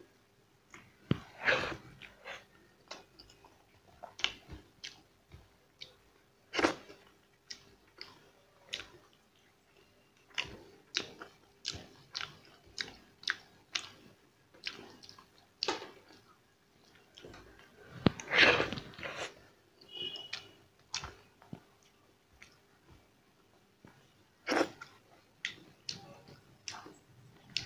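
A person chewing and smacking while eating rice and curry by hand: irregular wet mouth clicks and smacks, with a few louder bursts of chewing.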